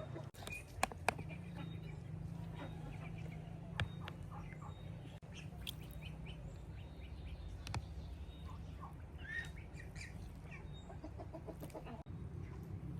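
Chickens clucking in short, scattered calls, with small birds chirping and two sharp knocks about a second in.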